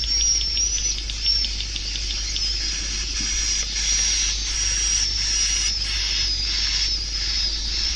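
Recorded swiftlet calls played as a swiftlet-house lure: a continuous high, wavering twitter, with a fast run of clicks in the first couple of seconds.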